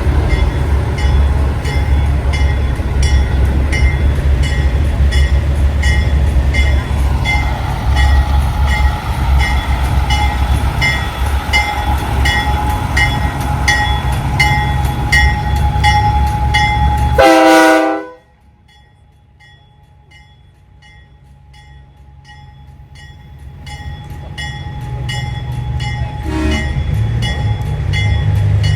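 Heavy diesel truck engine rumbling with a regular ticking about twice a second, then one short loud air-horn blast about seventeen seconds in. The sound then drops off suddenly to a faint rumble that slowly grows louder again.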